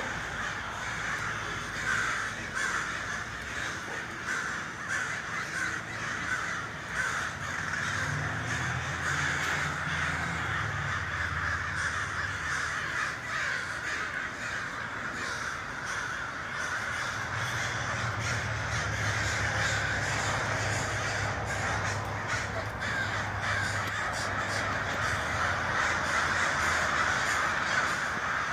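A large flock of American crows cawing continuously, many calls overlapping into a steady din. A low hum rises and fades twice underneath.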